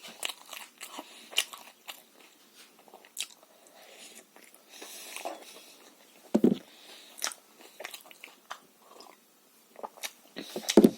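Close-up chewing and eating sounds of momo dumplings: irregular wet clicks and lip smacks, with a couple of louder knocks about six seconds in and near the end.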